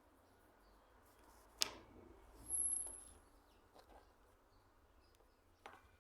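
A sharp knock about a second and a half in, then a low dull bump, and a lighter tap near the end.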